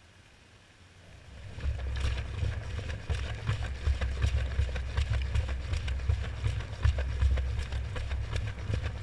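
Washing machine drum starting to turn about a second and a half in, heard from inside the drum: a low rumble of tumbling wet washcloths and sloshing soapy water, with many quick knocks and splashes against the camera.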